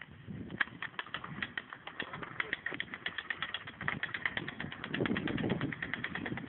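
Bicycle freewheel hub ticking rapidly, about eight clicks a second, as the bike coasts downhill without pedalling, over a low rumble of tyres and wind.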